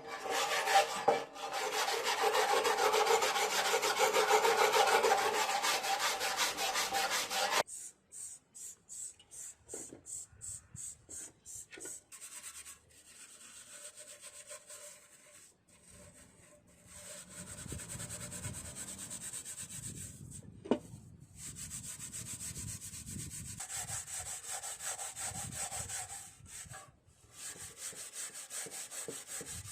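Rapid back-and-forth rubbing strokes of something abrasive worked by hand over a surface, fast and dense for the first seven or eight seconds. It stops abruptly, then gives way to slower, quieter strokes and uneven scraping, with one sharp click about two-thirds of the way through.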